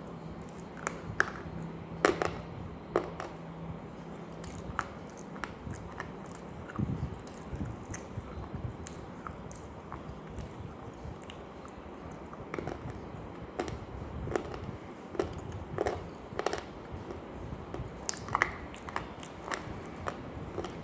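Close-up crunching bites and chewing of something dry and crunchy, as irregular sharp crackles with the loudest crunches about two seconds in and near the end.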